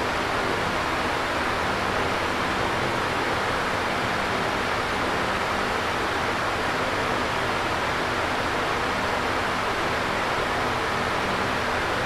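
Electric fan running steadily: an even whooshing rush of air with a faint low hum.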